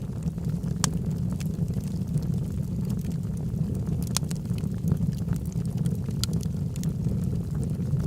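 Log fire burning with a steady low roar of flames and scattered sharp crackles and pops, a few louder ones standing out.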